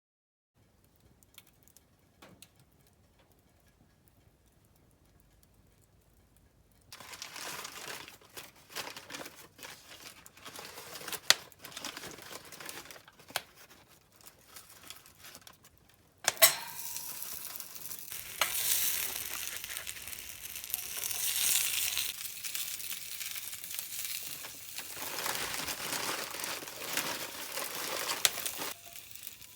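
Sizzling and crackling of cooking over a campfire, with many small sharp clicks and pops. Faint for the first several seconds, it picks up about seven seconds in and grows louder from about sixteen seconds with a sharp click.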